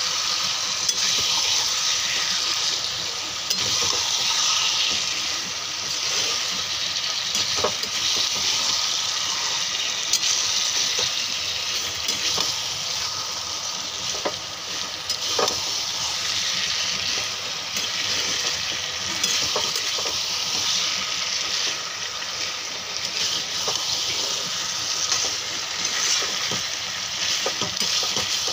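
Chicken and potato pieces sizzling steadily in oil and masala in a frying pan, stirred with a spatula that scrapes the pan and gives a few short knocks.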